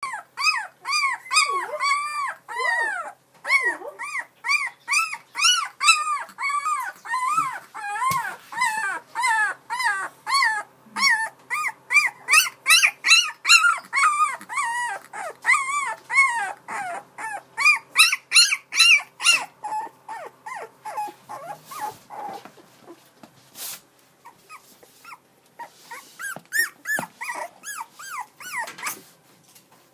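A dog howling in a long run of short calls that rise and fall in pitch, about two a second, becoming sparser after about twenty seconds. There is a sneeze near the end.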